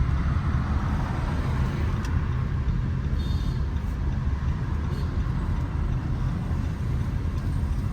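Steady city road traffic noise, with a continuous deep rumble of vehicles.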